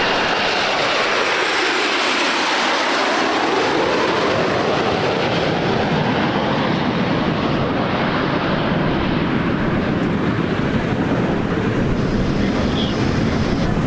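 Aermacchi MB-339 jet trainers of the Frecce Tricolori passing overhead: a loud, steady jet roar with a swooshing sweep that falls and then rises in the first few seconds, then a deeper, steady rumble as the jets move away.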